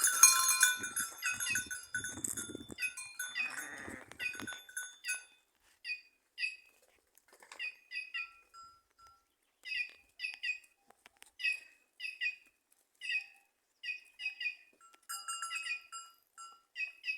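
White-naped jays (cancão) calling again and again in short, harsh, nasal notes, often in quick pairs, with a denser burst of overlapping calls near the start and again near the end.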